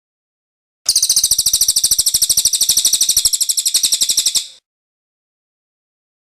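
Cililin bird giving its rolling song (ngerol): one fast, high-pitched trill of rapid even notes, about eighteen a second, lasting about three and a half seconds and tailing off at the end.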